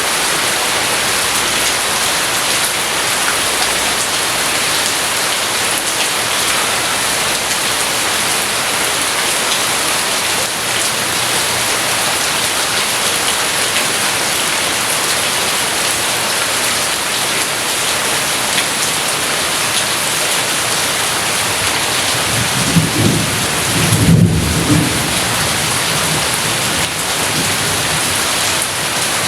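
Steady rain falling, with a low rumble of thunder that swells about 22 seconds in and lasts about three seconds.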